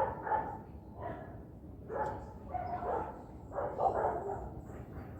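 A dog barking repeatedly in short calls, roughly one or two a second.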